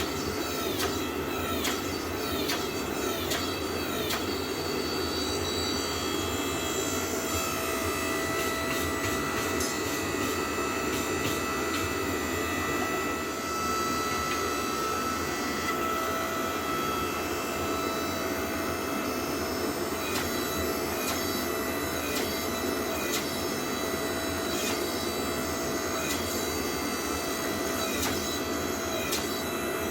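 Hydraulic forging press running with a steady machine drone, a whine rising in it for a stretch in the middle. Sharp metallic strikes ring out over it, about two a second for the first few seconds and again, more spread out, in the last third.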